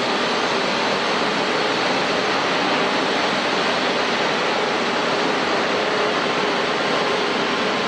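Jet airliner engines running: a steady, even rushing hiss with a faint steady whine in it.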